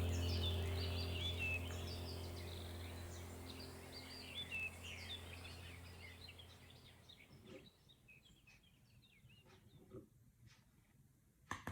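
Ambient soundtrack of birds chirping over a low steady drone, fading out over about six seconds to near silence, with a few faint clicks near the end.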